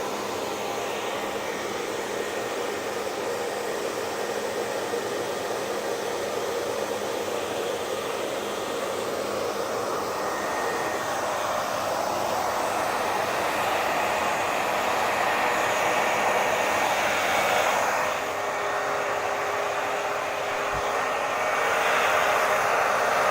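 Hair dryer running steadily: a continuous rush of air with a faint steady whine in it. It dips slightly about 18 seconds in, then grows a little louder.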